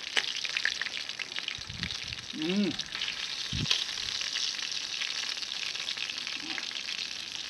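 Meat sizzling on a grill over a campfire, a steady crackling hiss. A short voiced sound comes about two and a half seconds in.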